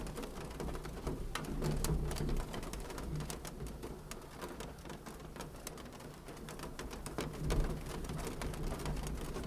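Wood fire in a fireplace crackling: a steady run of small, irregular pops and snaps over a low rumble of the flames.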